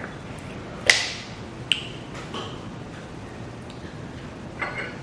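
Tableware clinking during a meal: a sharp, ringing clink about a second in, a smaller one just under a second later, and a light rattle near the end.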